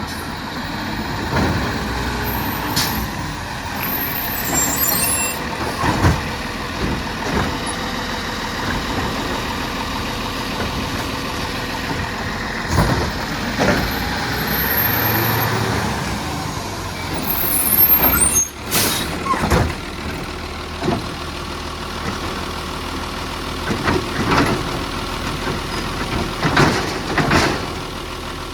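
Refuse truck running steadily during collection, with repeated metallic bangs and knocks, loudest in a cluster past the middle and again near the end. There are a few short, high squeals, around four seconds in and again before the loudest bangs.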